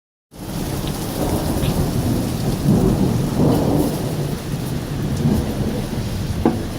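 Thunder rumbling almost continuously over steady rain, swelling about three seconds in. A sharp tap comes near the end.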